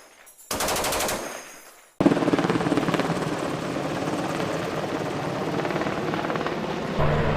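Machine gun firing one long rapid burst of about a second, just after the gunner takes over from a stoppage. Then an abrupt change to a steady low rumbling noise.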